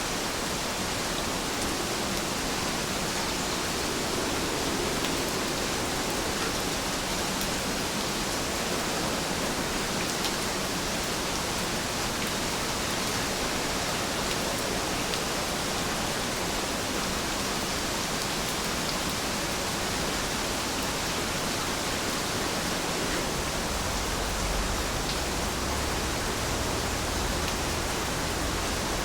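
Steady rain falling, an even rushing hiss with faint scattered drop ticks. A low rumble comes in about three quarters of the way through.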